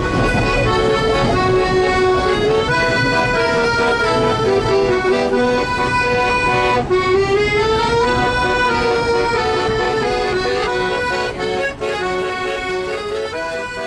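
Accordion playing a melody over sustained chords.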